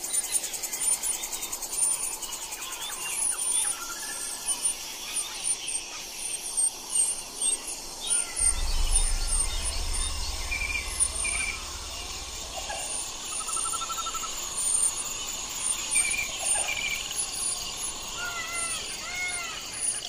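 Small birds chirping: many short, high chirps and thin peeps overlapping, with a low rumble from about eight to thirteen seconds in.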